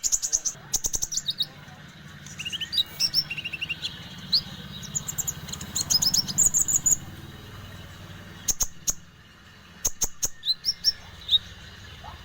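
Konin bird calling actively in bursts of short, sharp high chirps and quick rising notes, with the busiest run in the middle.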